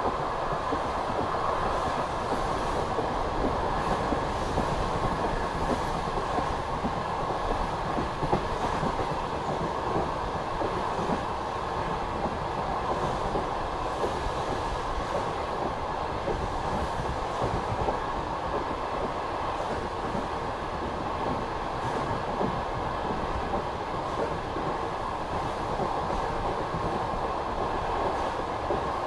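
Passenger train coach running at speed: a steady rolling rumble and rush of steel wheels on the rails, with scattered light clicks.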